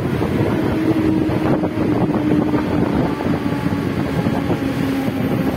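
Suburban electric local train running alongside a station platform, heard from its open doorway: a steady rumble of wheels and rushing wind, with a motor hum that slowly falls in pitch as the train slows.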